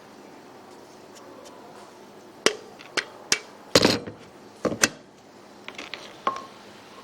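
A run of about six sharp knocks from hand work on the build, the loudest near the middle, then lighter clicks and one short ringing clink.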